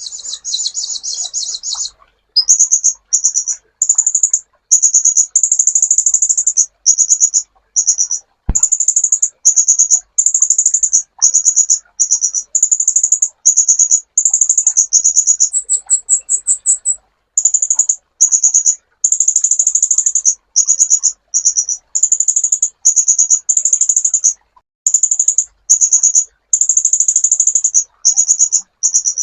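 Sunbird (kolibri ninja) singing: rapid, very high-pitched trills in short bursts, repeated back to back with brief pauses. A sharp click about eight and a half seconds in.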